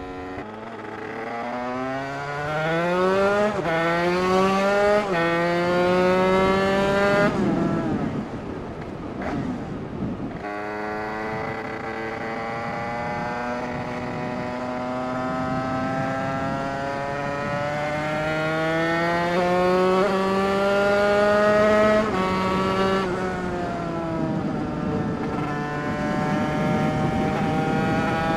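Two-stroke moped-class supermotard engine fitted with an 80cc MHR Team kit and a Bidalot expansion exhaust, pulling hard through the gears. Its pitch climbs and drops back at each gear change: two quick shifts in the first few seconds, a brief let-off near the middle, then long rising pulls with another shift about two-thirds of the way through.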